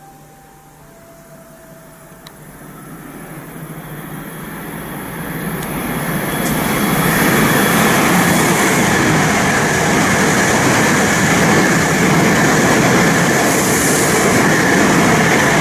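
Train passing through the station on track 12 without stopping. Its rumble builds over about seven seconds, then holds loud and steady.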